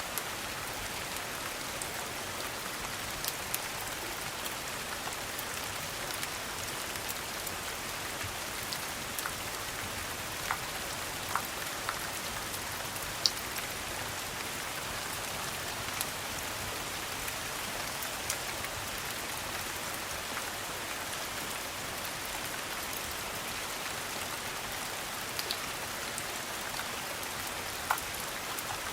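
Steady rain pattering, an even hiss of drops, with scattered sharp pops and ticks standing out now and then.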